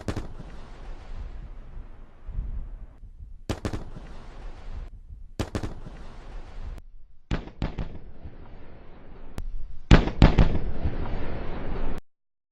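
Triple sonic boom of a returning Falcon 9 first stage: three sharp cracks in quick succession followed by a rumble, heard about five times over in separate takes. The last take is the loudest, and the sound cuts off abruptly near the end.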